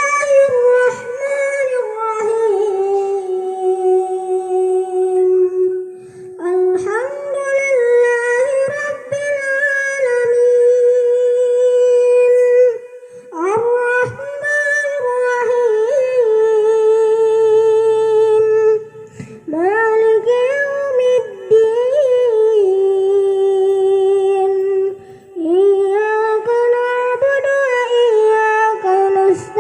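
A boy's voice chanting Quran recitation as a child imam, in long melodic phrases of held notes with ornamented turns. It pauses briefly for breath about every six seconds.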